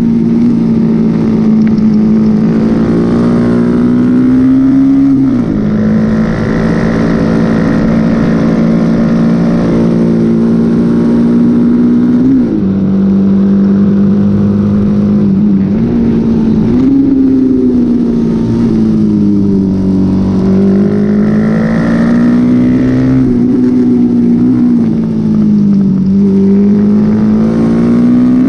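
Honda XL single-cylinder four-stroke motorcycle engine running hard at high revs. The pitch holds high and wavers with the throttle, with a few quick dips and jumps as it shifts gear.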